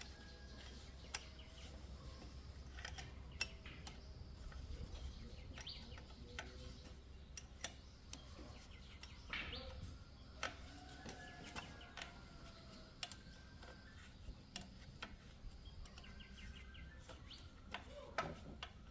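Faint birds chirping over a quiet, low hum, with scattered small sharp clicks and taps.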